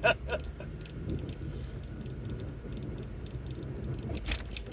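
Car's engine and tyres running steadily on the road, heard from inside the cabin, with a few light clicks and a short knock near the end.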